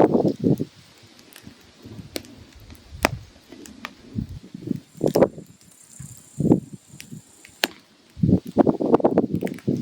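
Firewood burning, crackling with scattered sharp pops, and a dense run of crackling near the end.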